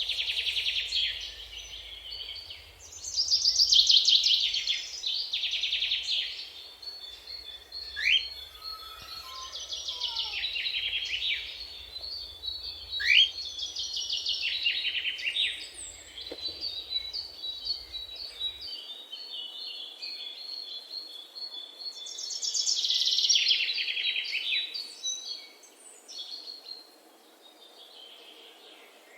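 Songbirds singing: repeated phrases of fast, high trills every few seconds, with a couple of quick upward-sweeping calls and a thin steady high note running through the middle stretch.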